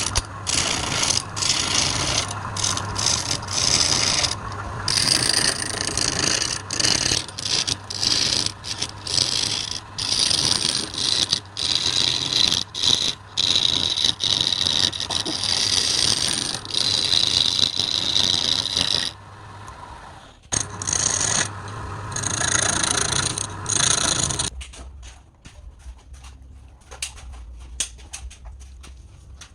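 A woodturning tool scraping and rasping against wood spinning on a lathe, in repeated passes broken by short gaps. It stops about 24 seconds in, leaving a quieter stretch with light clicks.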